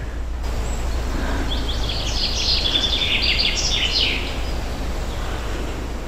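A songbird sings one fast run of high chirping notes lasting about two and a half seconds, starting about a second and a half in, over a steady low rumble.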